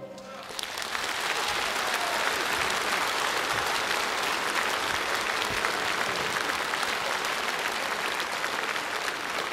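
Concert-hall audience applauding, swelling up within the first second and then holding steady.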